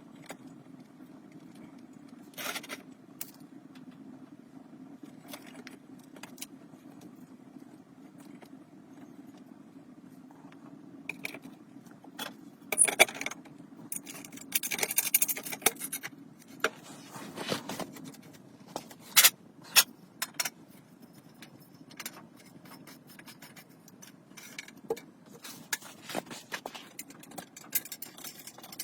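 Intermittent clicks, clinks and scrapes of small hard objects being handled, over a steady low hum; the clatter is busiest in the middle, with a short run of scraping.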